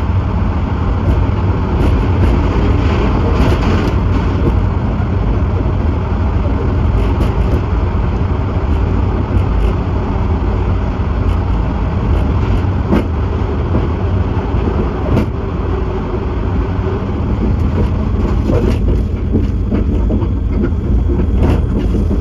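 Steady heavy rumble of a train running through a tunnel, heard from the cab of a trailing locomotive, with occasional sharp clicks from the wheels on the track. The noise thins a little near the end as the train comes out of the tunnel.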